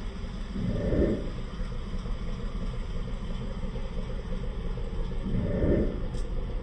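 2015 Dodge Charger R/T's 5.7-litre Hemi V8 idling, swelling briefly twice, about a second in and near the end.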